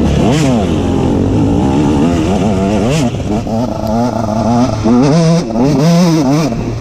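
KTM SX 125's single-cylinder two-stroke engine revving up and down repeatedly under the throttle, its pitch climbing and dropping several times, faster in the second half.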